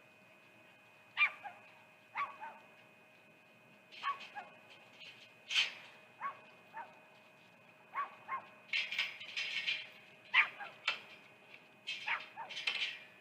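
An animal giving short, high barks or yips at irregular intervals, with a faint steady whine underneath.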